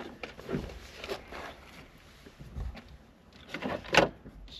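Scattered clicks and knocks of hand tools and metal parts being handled during work on a car's accelerator pedal, with a dull thud near the middle and the loudest knock near the end.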